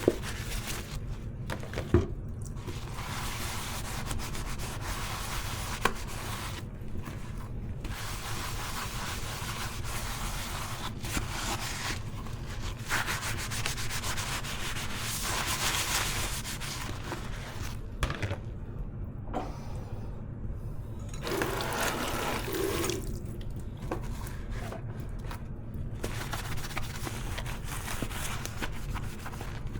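Dishes being scrubbed at a kitchen sink: stretches of rubbing strokes that stop for a moment several times, with a few sharp knocks of dishware.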